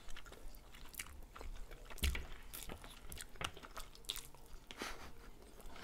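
Close-miked eating: chewing and mouth clicks as two people eat buckwheat spaghetti and chopped chicken cutlets, with many small wet clicks scattered through. A soft low thump comes about two seconds in.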